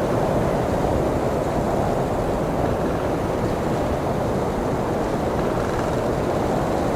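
Blizzard wind blowing steadily: a deep, unbroken rush with no gusts or breaks.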